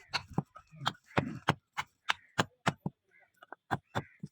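Rapid sharp knocks, about three a second, with a short pause near three seconds in.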